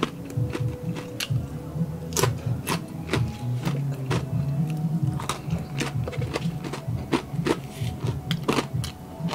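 Close-miked chewing of crispy deep-fried mussels, with many sharp, irregular crunches.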